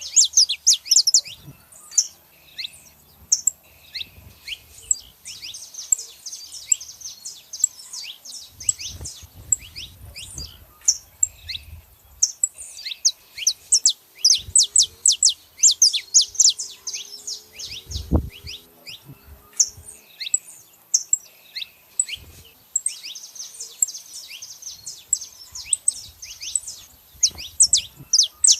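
Saffron finches chirping: rapid runs of sharp, high, downward-sweeping chirps in bursts of a few seconds, with short pauses between.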